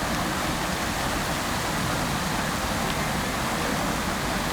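Outdoor fountain with water splashing and falling continuously into its basin, a steady, even rushing hiss.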